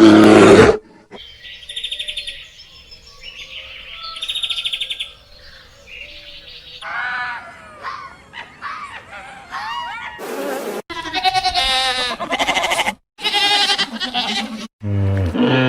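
A run of animal calls: a loud roar cuts off in the first second, followed by repeated high trilling chirps and then warbling, pitched bird calls.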